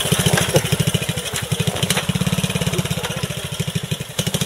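Vintage trials motorcycle engine running at low revs with an even, rapid beat as it is ridden slowly up a slope.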